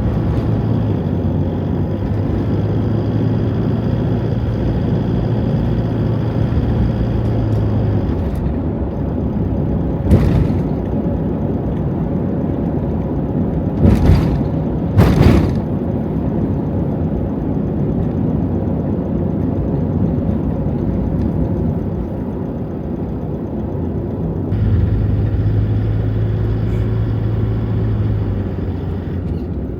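Steady road and engine noise heard from inside a moving Toyota HiAce van. A low engine hum fades about eight seconds in and returns near the end. Three short, louder noises come around the middle.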